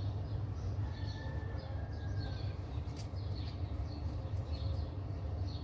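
Small birds chirping, short calls repeating several times a second, over a steady low rumble.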